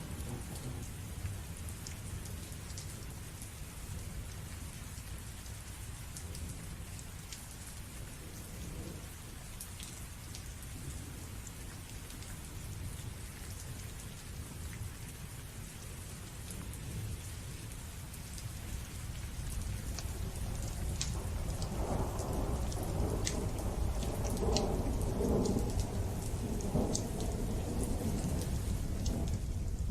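Thunderstorm: steady rain with scattered drop ticks, and a thunder rumble that grows louder from about two-thirds of the way in.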